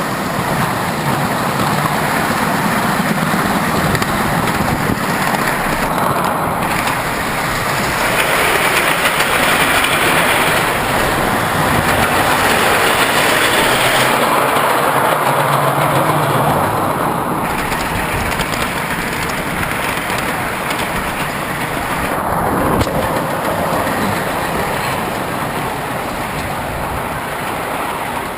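Train running along the track, heard from aboard: a steady rumble and rattle of wheels on rails, swelling and easing a little without a break.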